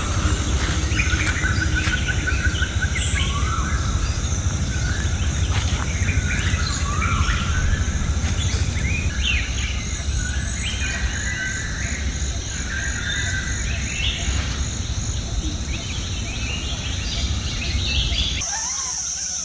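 Forest birds singing and chirping with a steady high insect buzz, over a steady low rumble. Near the end the rumble stops abruptly and the insect buzz grows louder.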